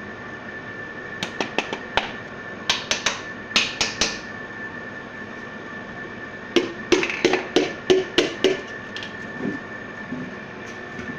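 Hand tools tapping and knocking on metal engine parts during engine assembly, in two runs of quick strikes several a second, the second run with a short ringing note on each strike, over a steady high-pitched hum.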